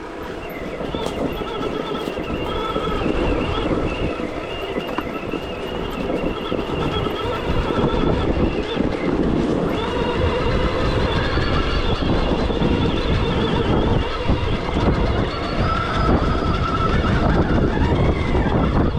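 Stark Varg EX electric dirt bike riding off-road: the electric motor's whine rises and falls in pitch with the throttle, over a steady rumble from the ride.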